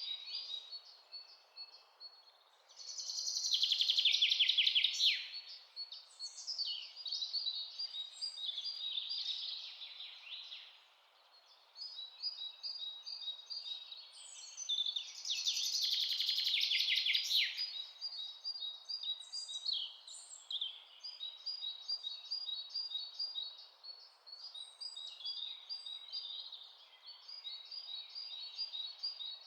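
Several songbirds chirping and singing in a forest, with many short repeated calls. Two louder bouts of rapid trilling song come a few seconds in and again about halfway through. A faint steady hiss lies underneath.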